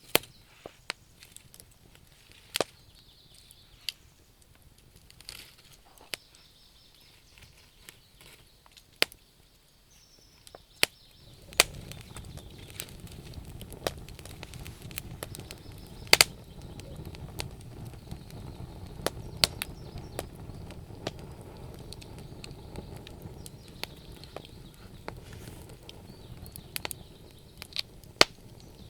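Burning wood crackling and popping at irregular intervals. About eleven seconds in, a steady low rushing sound joins the pops.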